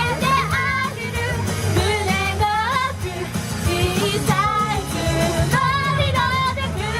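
Idol pop song performed live: female vocals singing with vibrato over a loud pop backing track.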